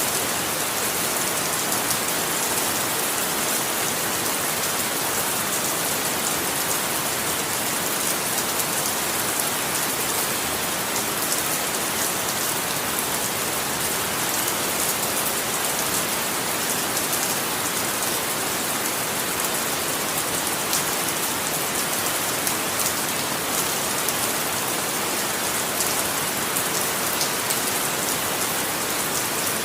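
Steady rain falling, an even hiss with a dense patter of individual drops hitting a surface.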